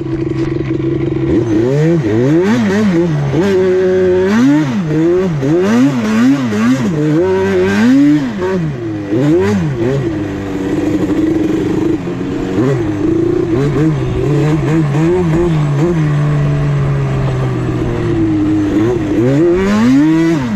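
Yamaha Banshee twin-cylinder two-stroke engine with a MOTOFAST 2-into-1 exhaust, revved up and down again and again while riding. It holds a steadier pitch for several seconds, then rises once more near the end.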